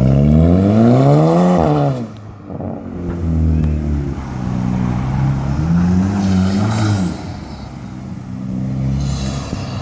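Volkswagen Golf Mk5 GTI's 2.0-litre turbo four-cylinder revved through an exhaust with its muffler deleted. The revs climb steeply for about two seconds and drop away, then there are two shorter blips of the throttle around the three- and six-second marks, with the engine running near idle between them.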